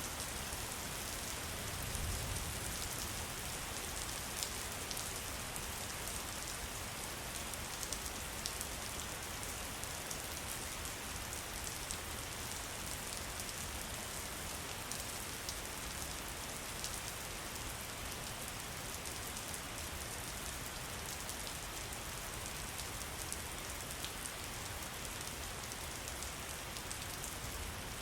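Steady rain: a continuous even hiss with many separate drop ticks, and a brief low swell about two seconds in.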